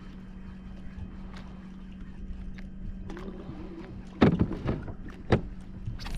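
Fishing kayak on the water: a steady low hum with small clicks, then two sharp knocks of gear against the kayak hull about four and five seconds in.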